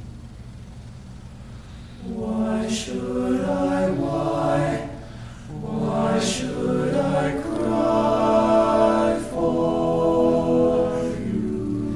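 All-male a cappella group singing sustained close-harmony chords without instruments, entering about two seconds in after a quiet moment, with a short breath-like break around the middle.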